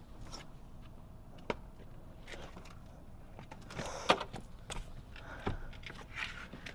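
Handling noises from hand-washing a car: scattered sharp knocks and clicks with brief rubbing or wiping sounds, the loudest knock about four seconds in.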